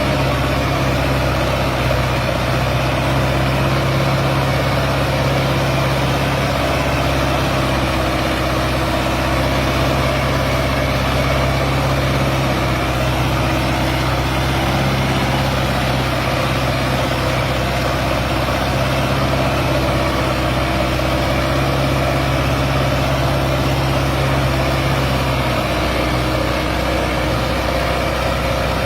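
Sonalika DI 750 tractor's diesel engine running steadily under load, hauling a fully loaded trolley, with a brief waver in its note near the end.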